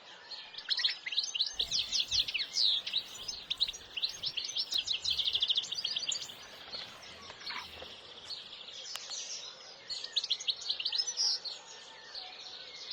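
Songbirds singing, a dense chorus of rapid chirps and trills, busiest in the first half.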